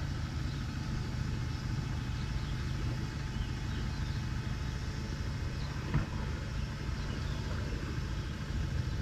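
A vehicle engine idling steadily with a low rumble, and one short knock about two-thirds of the way through.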